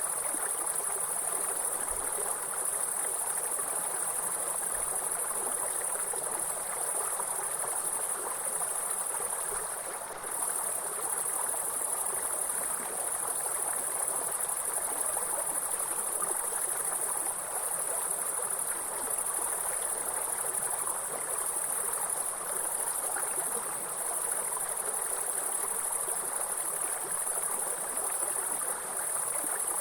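A steady, high-pitched insect chorus over the even rush of flowing water from a stream. The insect sound dips briefly about ten seconds in.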